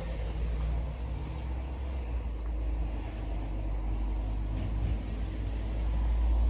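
Steady low rumble with a faint hiss above it, with no clear birdsong standing out.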